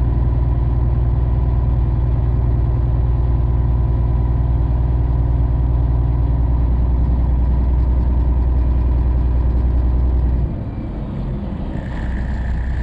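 An engine idling with a steady, loud low drone. About ten and a half seconds in, the low drone drops away abruptly, and about a second later a steady high-pitched tone comes in.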